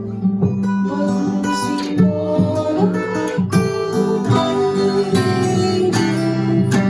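Acoustic guitar played fingerstyle, plucking arpeggiated chords with the notes ringing over one another.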